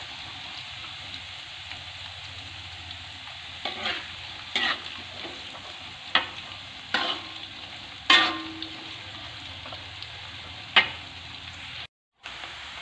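Sliced jengkol deep-frying in hot oil in a wok, sizzling steadily, with a metal spatula stirring and knocking against the wok about six times. The slices are being fried until dry and crisp. The sound cuts out briefly near the end.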